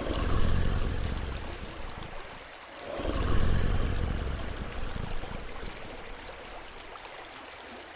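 Soft rushing ambience like flowing water, swelling twice and then fading away.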